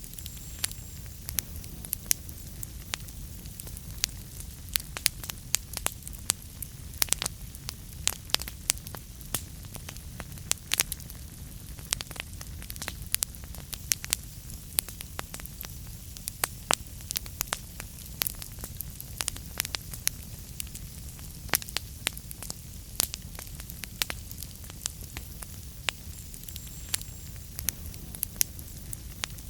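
Wood fire in a fireplace crackling: frequent sharp, irregular pops over a steady low rumble.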